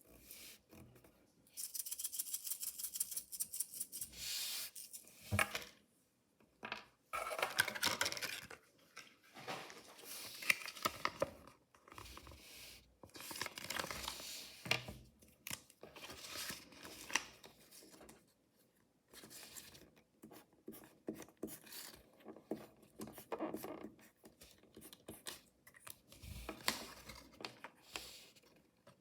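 Mystery toy packaging being torn open and handled by hand: a long, rapid rip starting about a second and a half in, then repeated short bursts of tearing and rustling.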